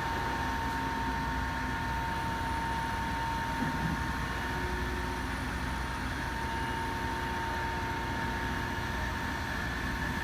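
Cat 657G wheel tractor scraper running steadily: a constant engine drone with a thin, unchanging whine above it.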